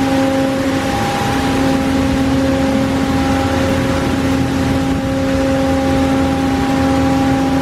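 D&S Odyssey automatic car wash running: a steady hiss of water spray over a constant machine hum.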